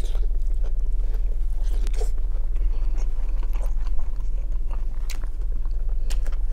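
Close-miked chewing of grilled skewered meat: wet mouth smacks and soft clicks, with a sharper click about four seconds in, over a steady low hum.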